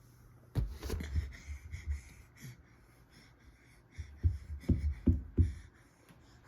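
Soft, dull thumps of a rubber balloon being batted and patted by a baby's hands: a few about half a second in, then a quick run of four or five about four seconds in.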